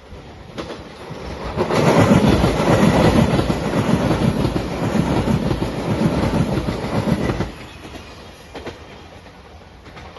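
A five-car Shiokaze limited express train passes at speed, its wheels clattering over the rail joints. The noise builds quickly, stays loud for about six seconds, then falls away sharply as the last car goes by.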